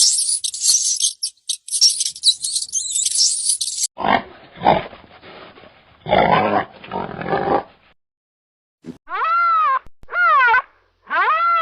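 A run of different animal calls. First come high-pitched chattering squeaks, then low grunts, and after a short gap three loud calls, each rising and then falling in pitch.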